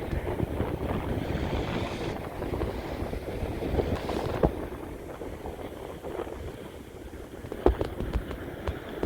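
Sea wind buffeting the microphone with a continuous low rumble, the sea's surf in the background, and a few sharp knocks, the loudest about three-quarters of the way through.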